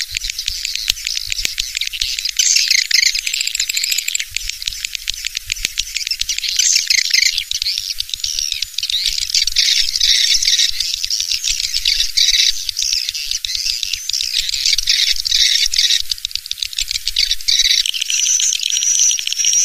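Swiftlet call recording: dense, continuous high twittering and chirring of many swiftlets, with no low sound in it, used as a lure to draw swiftlets into a nesting house. A steadier, shrill chirp comes through near the end.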